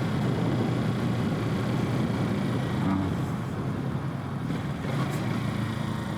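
2021 Kawasaki Z650's parallel-twin engine running under way, mixed with steady wind rumble on a helmet-mounted microphone.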